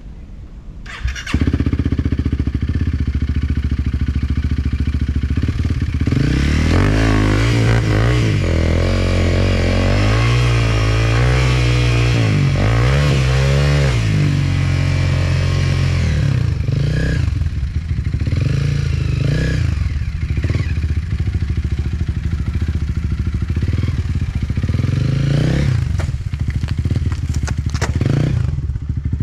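Enduro dirt bike engine that comes in suddenly about a second in, then revs up and down repeatedly for several seconds before running on with smaller throttle changes.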